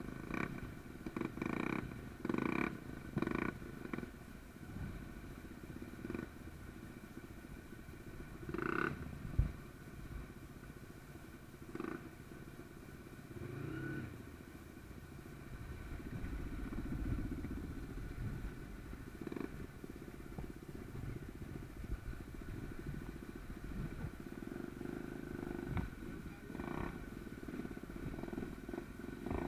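Small trail motorcycle engine running at low revs, with a rumble that rises and falls and scattered knocks and clatter, the sharpest about nine seconds in.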